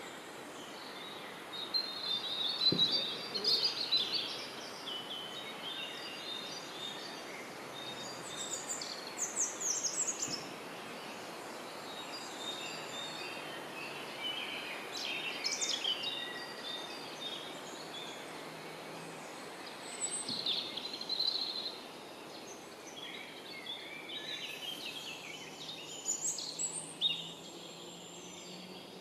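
A songbird singing short, chirpy phrases, repeated about every five or six seconds, over a steady hiss of background noise.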